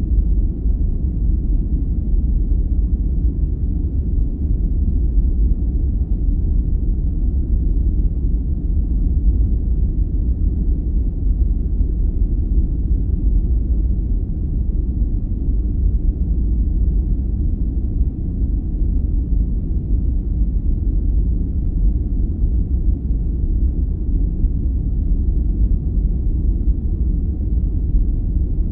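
Steady sleep-aid noise with a deep, even rumble, heavy in the bass and with no high hiss.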